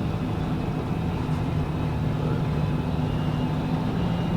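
Old grain truck's engine running steadily under way, an even low drone with no change in pitch.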